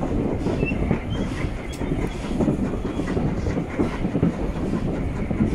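Steam-hauled passenger train heard from a carriage window: the coaches behind an Ivatt 2MT tank locomotive running steadily along the track, with the wheels knocking irregularly on the rails.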